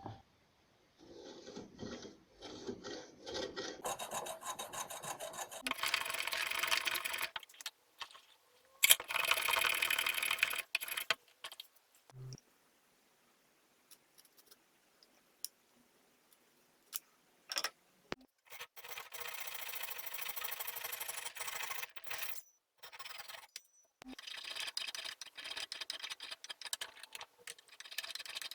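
Wood being worked by hand with an abrasive tool such as a rasp, file or sandpaper: quick rubbing strokes in several bursts, broken by sudden silences.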